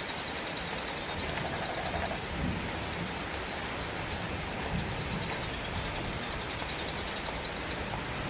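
Steady rain falling, an even hiss of drops, with a couple of slight low swells about two and a half and five seconds in.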